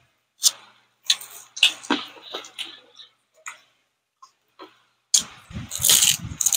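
Close-miked eating sounds: sharp wet mouth clicks and lip smacks of chewing, scattered over the first three seconds. A denser run of chewing noise comes about five seconds in.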